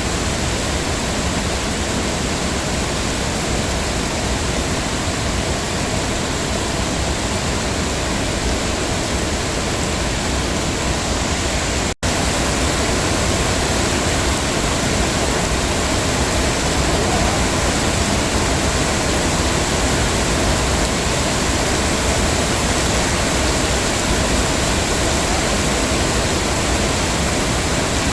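Heavy rain falling steadily, a continuous dense hiss. It cuts out for an instant about twelve seconds in, then resumes slightly louder.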